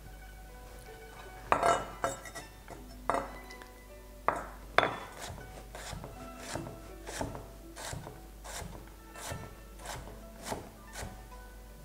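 Knife chopping a carrot on a cutting board: a few sharp knocks early on, then a steady run of chops, with background music.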